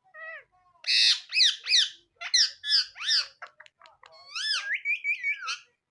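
Indian ringneck parrot squawking: a rapid series of short, harsh calls, each rising then falling in pitch, with a quick run of clicks about halfway through.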